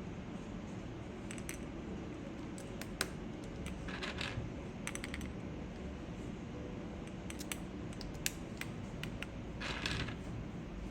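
Light plastic clicks and short clatters of mechanical keyboard parts and keycaps being handled, scattered and irregular, with a brief flurry about four seconds in and another near the end. A steady rain hiss runs underneath.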